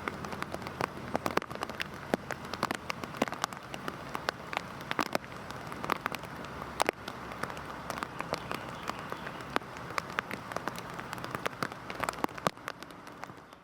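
Heavy rain falling, a steady wash of noise with many distinct drops pattering sharply on a surface, fading out near the end.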